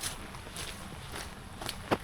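Footsteps of a person walking, about two steps a second, with a sharper step near the end.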